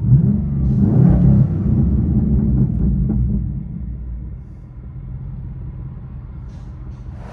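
2009 Pontiac G8 GT's 6.0 L V8 with the mufflers deleted and only two small middle resonators left, heard from inside the cabin as a deep, muffled rumble. It runs loud at first, then settles to a quieter, steady idle about four seconds in.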